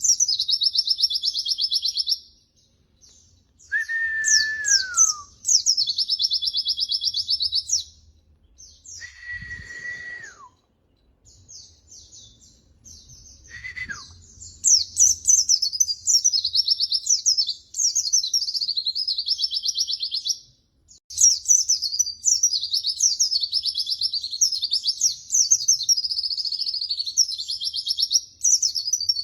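White-eye (pleci) song: fast, high twittering phrases in runs of several seconds, broken by a few short gaps. Three times, about four, nine and fourteen seconds in, a lower whistle slides downward.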